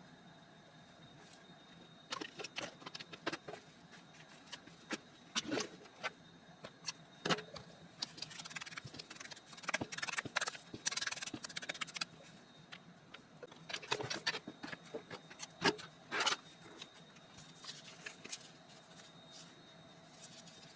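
Paper and craft materials being handled: irregular rustling, scraping and small clicks and taps, coming in bursts and busiest in the middle of the stretch.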